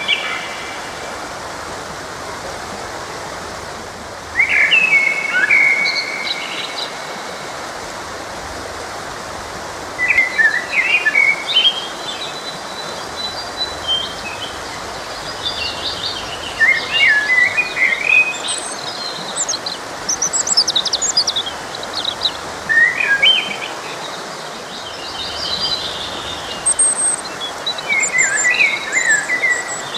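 Several songbirds singing and chirping in short, quick phrases every few seconds over a steady rush of flowing stream water.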